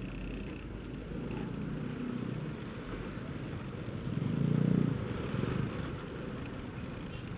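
Engine noise of motor traffic heard from a motorcycle creeping through a jam of big trucks: a steady low rumble that swells louder for about a second midway.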